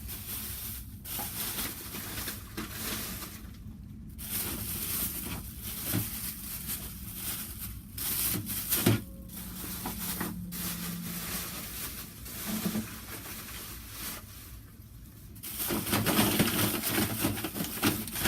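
Rustling and irregular clicks and knocks of toys and packaging being handled and moved about, over a faint steady low hum.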